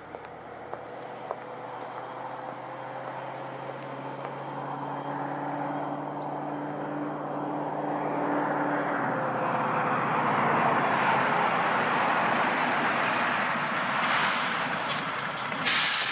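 Heavy truck engine and road noise growing steadily louder, ending with a short sharp hiss near the end.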